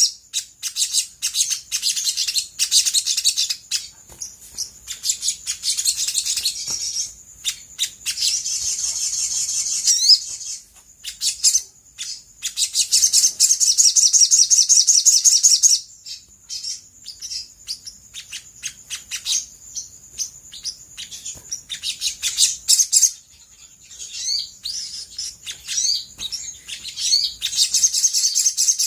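Olive-backed sunbird singing: long runs of rapid, high-pitched chattering trills broken by stretches of single sharp chirps and a few quick rising notes. This is the prolific song used as a lure to get other birds to answer.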